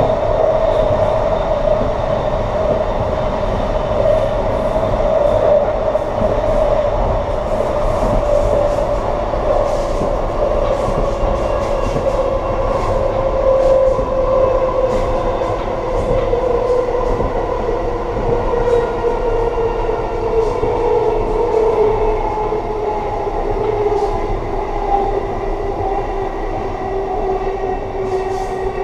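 Amtrak passenger train running on the track, heard at its rear end: a steady rumble of wheels on rail with a strong ringing tone that slowly falls in pitch, and scattered light clicks.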